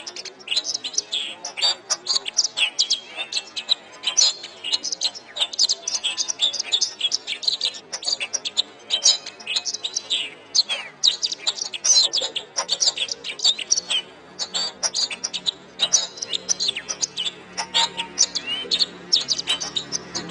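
Domestic canary singing a fast, continuous song of rapid chirps, trills and short rising whistles.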